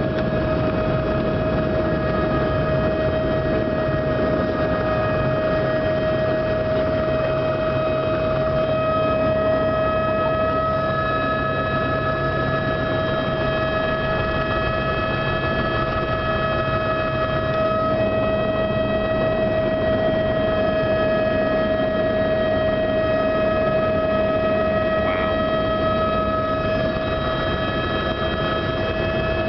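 Helicopter running at takeoff: a steady high turbine whine over a dense rumble from the engine and rotor. Some of the fainter higher tones shift up slightly about nine to eleven seconds in.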